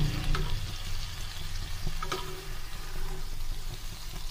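Chicken pieces sizzling as they fry in oil in a frying pan, with a low steady hum underneath. Metal tongs click sharply twice against the pan as the pieces are turned over.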